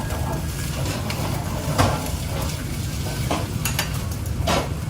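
Food sizzling in a frying pan while a utensil stirs it, scraping and knocking against the pan a few times, loudest about two seconds in, over a steady low rumble.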